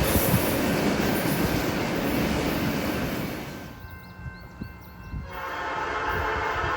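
Norfolk Southern freight train rolling by with wheel and rail noise, which drops away about three and a half seconds in. From about five seconds in, a locomotive horn sounds a steady chord of several notes.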